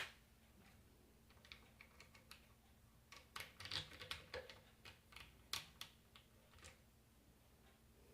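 Faint, irregular light clicks and taps of small parts being handled at a workbench, over near silence.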